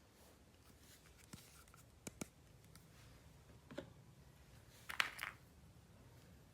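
A few light clicks and taps from hands handling plastic toys and packaging, the loudest pair about five seconds in.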